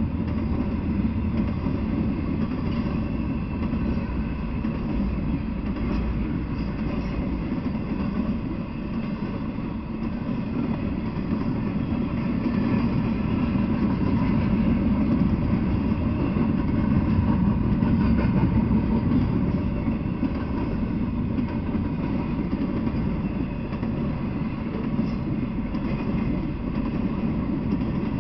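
Double-stack intermodal freight train rolling past, a steady low rumble of wheels on rail that gets a little louder about halfway through.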